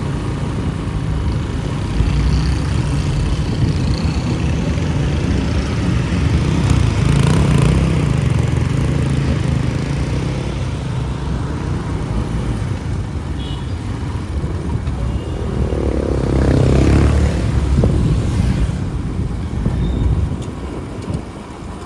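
Motorcycle riding through city street traffic, its engine running steadily with other vehicles around it. A louder passing vehicle swells and fades about three-quarters of the way through.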